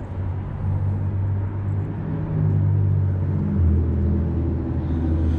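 Vehicle engine idling: a steady low hum whose pitch steps down a little about three and a half seconds in.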